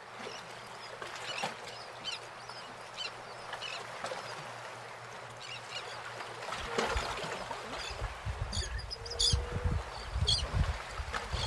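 Lakeside birds chirping and calling in short scattered notes, with low buffeting of wind on the microphone starting about halfway through.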